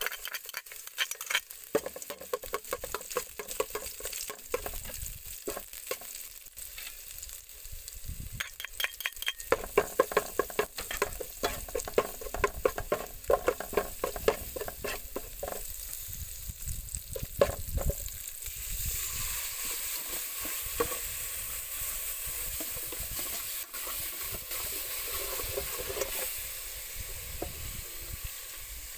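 Chopped garlic and aromatics (galangal, kaffir lime leaves) frying in a metal pot, with a metal spoon scraping and clicking against the pot as they are stirred. From about two-thirds of the way in the clatter stops and a steady sizzle remains.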